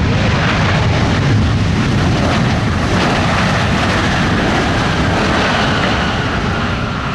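Jet airliner landing close by, its engines giving a loud steady roar. Near the end the sound eases and an engine whine slides slowly down in pitch as the aircraft moves away.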